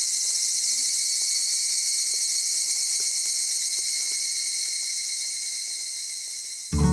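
Steady, high-pitched chorus of insects, fading slightly, cut off near the end as strummed acoustic guitar music starts abruptly.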